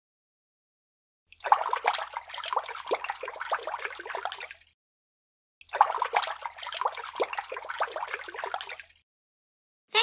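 Two bursts of gurgling, splashing water-like noise, each about three seconds long, with a short silence between them and a faint low hum underneath.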